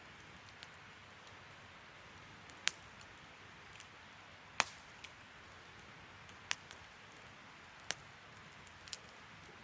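Wood bonfire crackling: a soft steady hiss broken by about six sharp pops a second or two apart, the loudest a little under halfway through.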